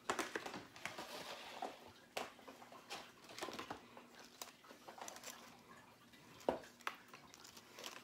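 Kitchen handling sounds while cooked chicken is cut up and portioned: irregular light clicks and taps of a knife and utensils against a board and containers, with one sharper knock about six and a half seconds in.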